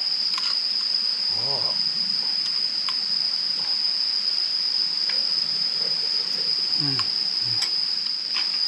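Insects trilling in one continuous, steady high-pitched tone, with a few faint clicks and a brief low murmur of voice underneath.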